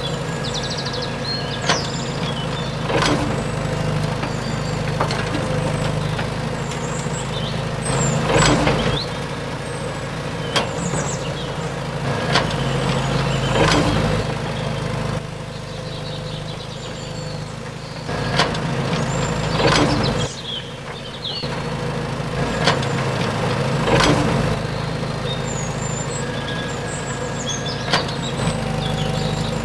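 Small electric motors of a DIY mini excavator and tractor running steadily while loading soil, with scattered knocks and clatter of soil and parts. High chirping, likely birds, runs over it throughout.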